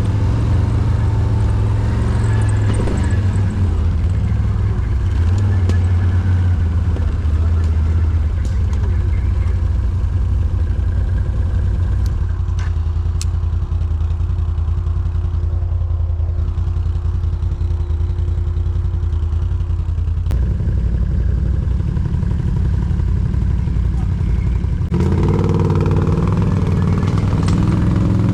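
Quad bike (ATV) engine running steadily at low revs, picking up and sounding fuller about 25 seconds in, with a few light clatters along the way.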